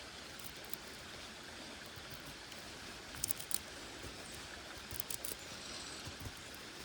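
Small stream running steadily, with two short clusters of sharp clicks, about halfway through and again about three-quarters through.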